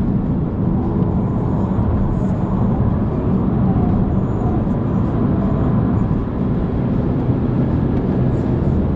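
Car driven at speed on a race track, heard from on board: steady engine drone mixed with road and wind noise, with no big rev changes.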